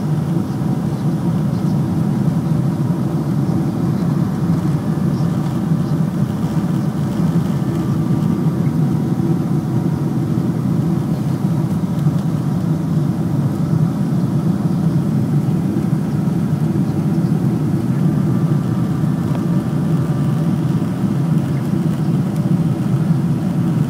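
Boeing 747-400ER jet engines, a loud, steady low rumble that holds constant without surges or breaks.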